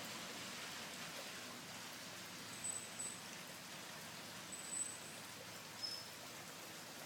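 Heavy rain falling steadily, an even hiss, with a few faint, short high-pitched chirps around the middle.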